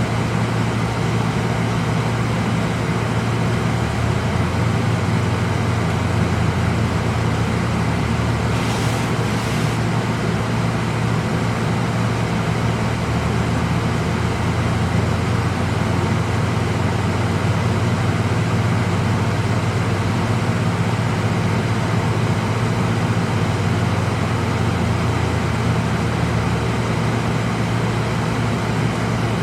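Car engine running with the heater fan blowing, heard inside the cabin: a steady low hum under an even rush of air, unchanging throughout.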